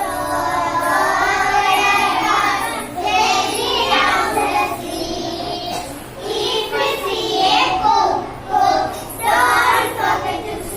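A young child singing an English nursery rhyme in short phrases, with brief pauses between lines.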